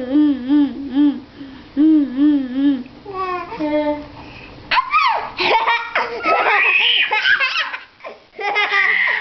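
A young child's voice holds a loud, warbling yell that wobbles up and down in pitch for about three seconds. Then it breaks into high squeals and laughter.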